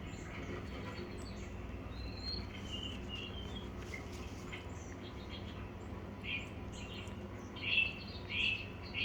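Small birds chirping in short, scattered high calls, with a few louder chirps close together near the end, over a steady low background hum.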